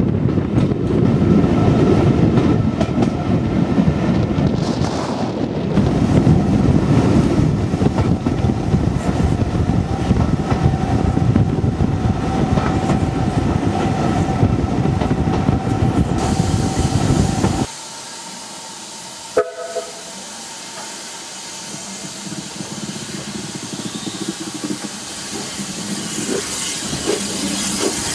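Heritage steam train carriages running along the track, a loud steady rumble and clatter of the wheels with a faint steady whine in the middle part. About two-thirds of the way through the sound drops suddenly to a much quieter running noise, broken once by a brief sharp sound, which then slowly grows louder again.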